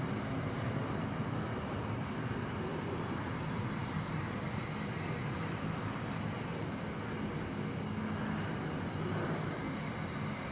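Container wagons of a Pacific National freight train rolling slowly past, a steady rumble of steel wheels on the rails.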